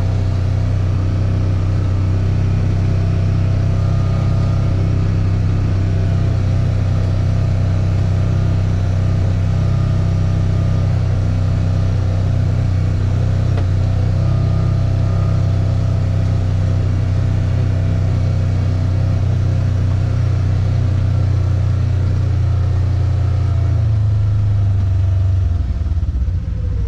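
Car engine and road noise heard from inside the cabin while driving: a steady low drone that shifts slightly near the end.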